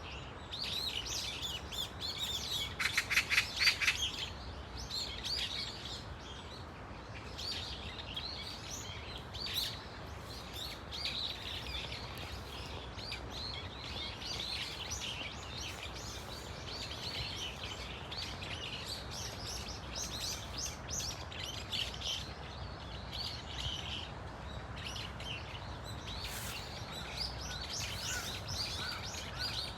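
A flock of brown-eared bulbuls calling, many high chirps overlapping one another, with a loud rapid run of calls about three seconds in. A low rumble of background noise lies beneath.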